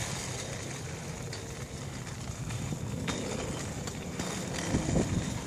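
Bicycle tyres rolling on pavement with a steady rumble and wind on the microphone, with a few low bumps about five seconds in.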